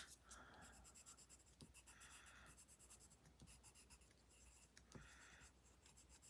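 Faint scratching of a colouring pencil on paper, in a few short strokes.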